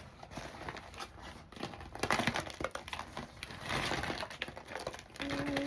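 Crinkling and rustling as a plant-dyed yarn bundle is unwrapped and handled, in irregular bursts with two stronger spells of rustling.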